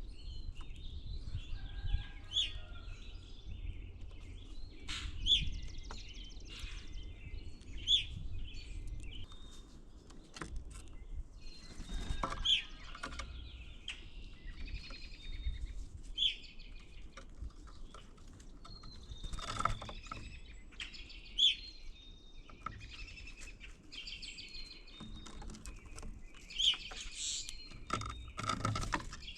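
Wild birds chirping and calling in many short, repeated notes, over a low rumble of outdoor noise.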